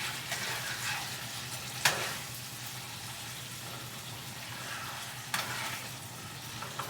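Marinated chicken sizzling in a pan turned down to low, a steady hiss with two sharp knocks, about 2 and 5 seconds in. Under it runs the low steady hum of the stove's vent fan.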